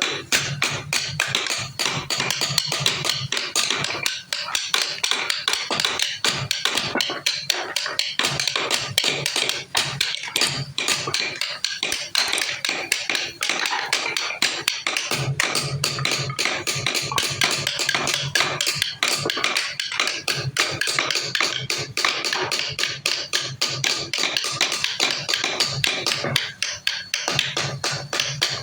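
Fast, steady tapping of a hand tool striking wood, several sharp knocks a second, with music underneath.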